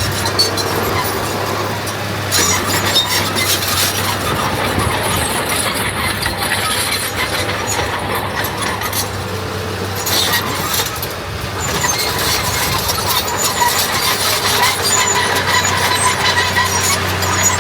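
Heavy diesel earthmoving machinery running steadily, with a constant low engine hum under continual metallic clattering and rattling.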